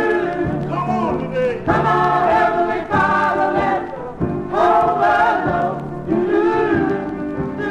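Black gospel choir singing with band accompaniment and a steady beat, played from an original 45 rpm vinyl record.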